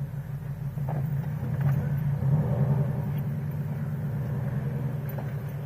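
Scion FR-S's 2.0-litre flat-four engine running as the car is driven slowly, a steady low hum that swells slightly about two seconds in.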